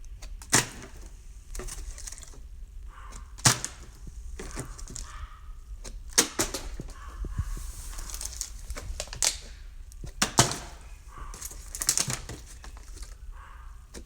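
A series of sharp, irregular knocks and thuds, about seven of them spread a second or more apart, over faint background noise.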